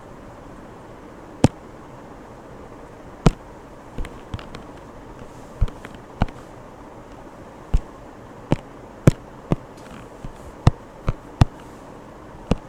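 A series of sharp taps, about a dozen at irregular intervals, over a steady low hiss.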